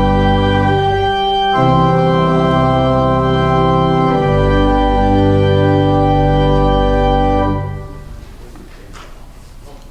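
Church organ playing held chords, closing on a final chord that stops about eight seconds in and leaves only faint room noise.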